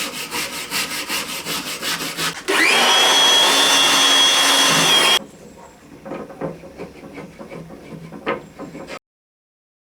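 Rapid back-and-forth strokes of a hand tool working wood, about five strokes a second, like sawing or rasping. About two and a half seconds in, a power tool whines up to speed, runs steadily for under three seconds and then stops. Light knocks and handling of wood follow, then the sound cuts out near the end.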